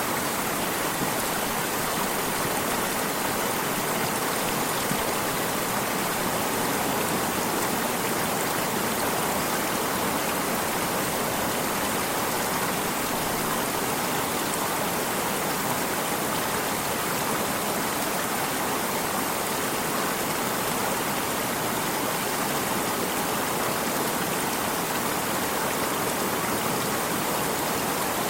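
Running water of a stream flowing, a steady even rush with no breaks or changes.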